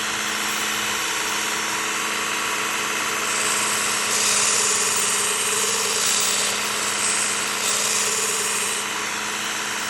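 Work Sharp Ken Onion Elite belt sharpener with grinding attachment running with a steady motor hum. From about three seconds in until about a second before the end, a steel blade pressed against the moving abrasive belt adds a grinding hiss.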